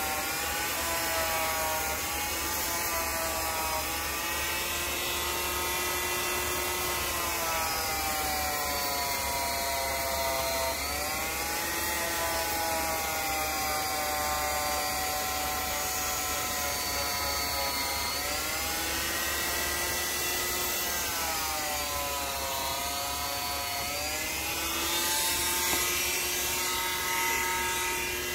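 Small electric power tool running continuously with a motor whine whose pitch sags and recovers several times, around 4, 11, 18 and 24 seconds in, as it is pressed into the work and eased off.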